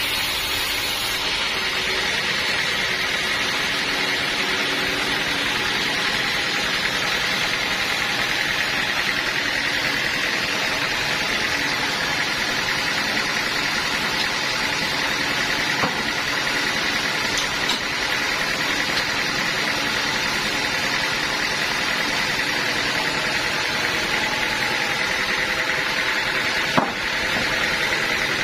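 Bandsaw sawmill machinery running steadily, with a few faint clicks and one sharper knock near the end.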